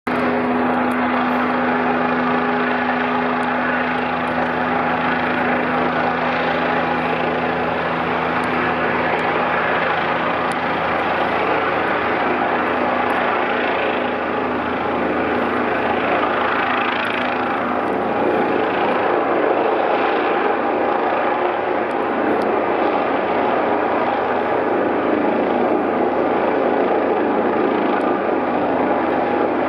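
Helicopter flying overhead, a steady, loud drone of rotor and engine; a low steady hum within it fades out about a third of the way through.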